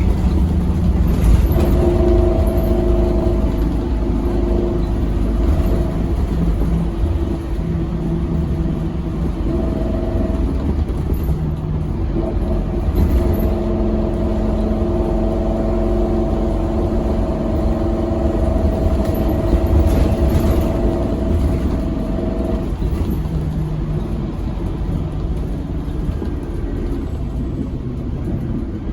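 Scania K270UB6 Omnilink tri-axle bus's diesel engine and ZF Ecomat automatic drivetrain heard from inside the bus while driving, a heavy steady rumble. A steady whine comes and goes over it, held longest for about ten seconds in the middle.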